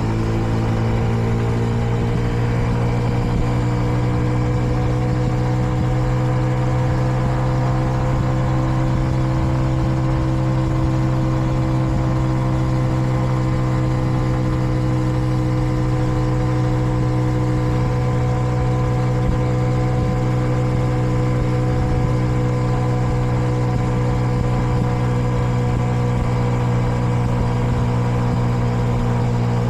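Kreidler Dice CR 125 motorcycle's 125 cc single-cylinder four-stroke engine running steadily at cruising speed, its pitch rising slightly over the first few seconds and then holding. The engine is in its break-in period and is kept to about 70 km/h.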